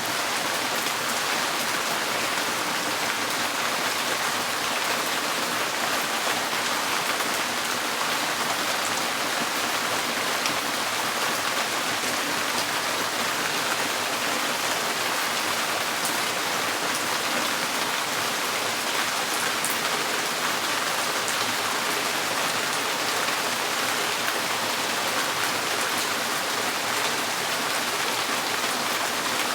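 Rain falling steadily on a tin porch roof, a dense, even wash of drops that neither builds nor eases.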